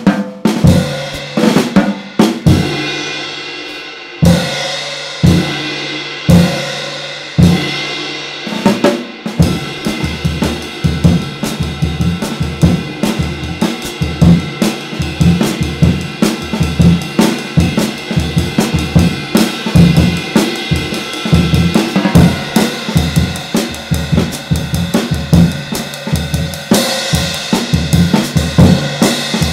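Hand-hammered light 18-inch and 19-inch ride cymbals of Turkish bronze, struck one hit at a time for about the first nine seconds, each hit ringing and fading. Then they are played in a steady drum-kit groove with bass drum and snare under the cymbal wash.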